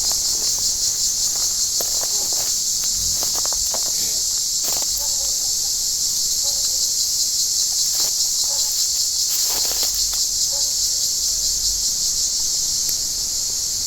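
Cicadas singing in a loud, unbroken chorus, a steady high buzz with a fine pulsing texture. A few faint clicks and brief chirps sound underneath.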